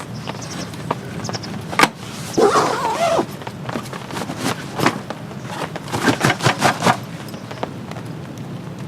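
Steady light rain hiss, with a single knock about two seconds in, a short wavering scrape just after, and a quick run of taps and clicks a few seconds later.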